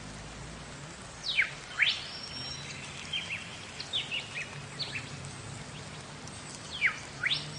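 Bird calls: two loud sweeping calls, each dropping and then rising sharply, one about a second in and one near the end, with shorter chirps between them, over a steady hiss.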